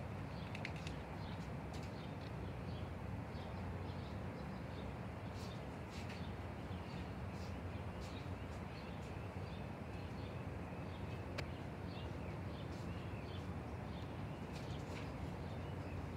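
Birds chirping in short, scattered calls over a steady low rumble, with one sharp click about two-thirds of the way through.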